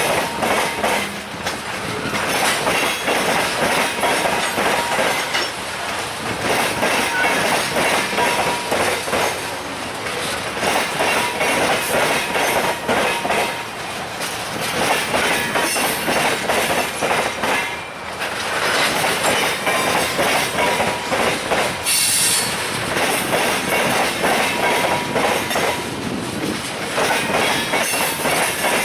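Freight train cars rolling past close by, the wheels clattering rhythmically over rail joints, with intermittent thin wheel squeal.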